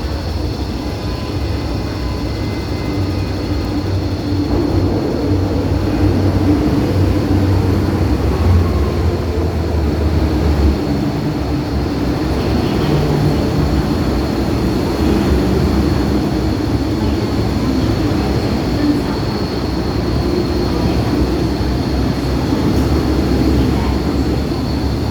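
MTR M-train electric multiple unit running through a station without stopping, a continuous heavy rumble of wheels and motors that swells a little over the first several seconds.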